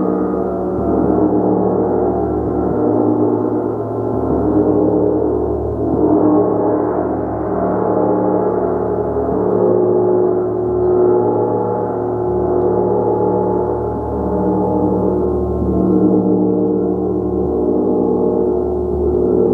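Gong played continuously, a dense, sustained wash of many overlapping tones that swells gently every second or two as the gong is kept sounding with soft, repeated strokes.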